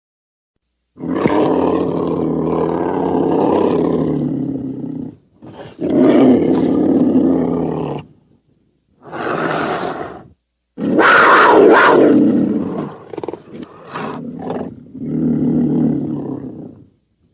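Edited hamster sound effects: a string of low, roar-like animal calls, each one to four seconds long, with short silences between them and a choppy run of short bursts past the middle.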